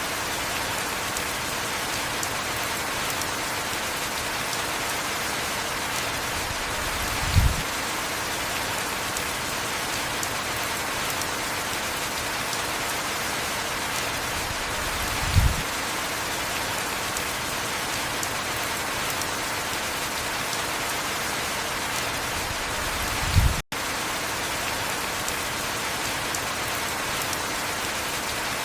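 Heavy rain falling steadily. A short low thump sounds three times, about eight seconds apart, and the sound cuts out for an instant just after the third.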